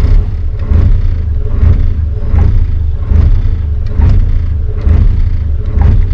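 Steady low rumble of the Dutch barge's engine running while cruising, swelling and easing a little under once a second.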